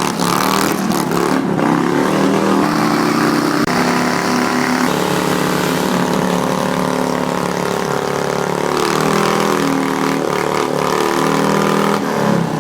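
Motorcycle engine revved hard and held at high revs for a burnout, its pitch stepping up and down as the throttle is worked.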